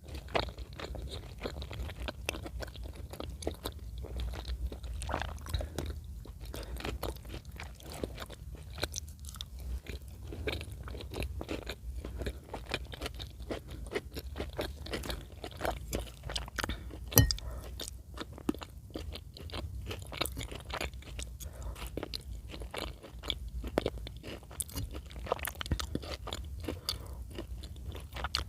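Close-miked ASMR chewing of chicken in cream sauce: a steady run of small crunches and mouth clicks, with one sharper click about 17 seconds in.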